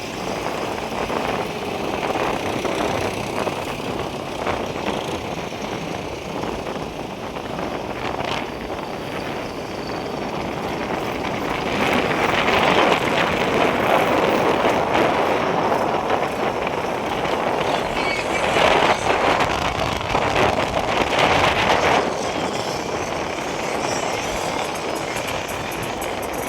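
Tractor engines running, a dense mechanical noise that grows louder for about ten seconds in the middle.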